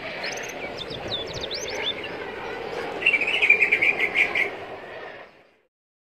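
White-eyes (Zosterops) chirping, many short high calls, with a louder rapid chattering burst about three seconds in; the sound cuts off abruptly near the end.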